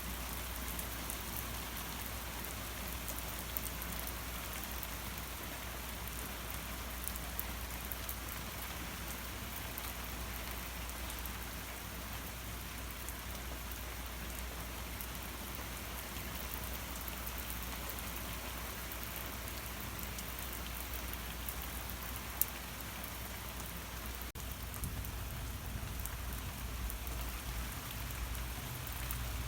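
Heavy rain falling steadily, a dense even hiss of drops on surfaces, with one sharp tick about three-quarters of the way through.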